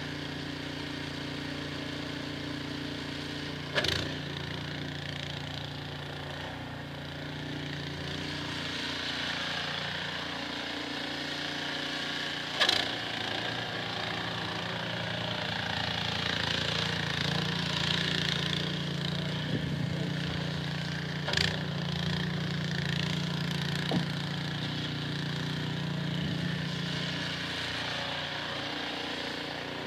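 Small engine running steadily under a hissing rush that swells in the middle, with four sharp knocks or clicks along the way.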